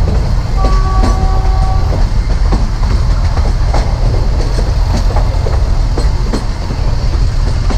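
Narrow-gauge train running along the track, heard on board: a heavy low rumble with irregular clickety-clack of the wheels over rail joints. A brief steady pitched tone sounds about a second in.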